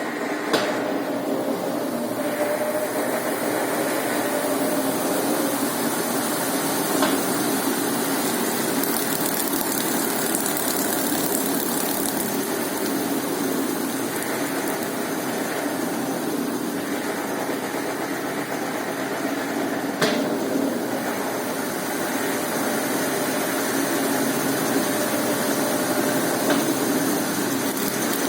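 Brastemp Ative 11 kg top-loading washing machine running its spin cycle after draining: a steady motor and drum whir with a faint steady tone, and a sharp knock about half a second in and another about twenty seconds in.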